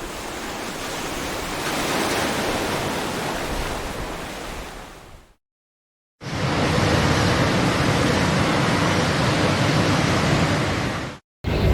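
Steady, even rushing outdoor noise in two edited stretches, broken by a clean cut to silence for about a second near the middle.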